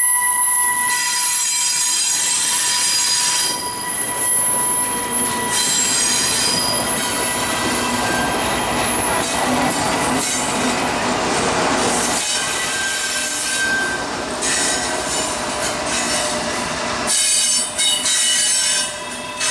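Double-stack intermodal freight train rolling past, its steel wheels squealing against the rail in steady high tones that come and go and change pitch, over a continuous rumble of the cars.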